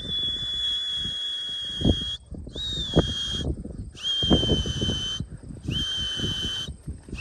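A whistle blown in five long, steady high blasts, the first about two seconds and the rest about a second each, every blast opening with a quick upward slide. It serves as the call to bring racing pigeons down to the loft. Wind buffets the microphone underneath.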